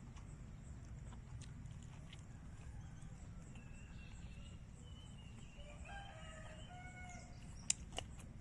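A rooster crowing faintly in one drawn-out call through the middle of the stretch, over a low steady rumble. Near the end come two sharp clicks close together, louder than the crow.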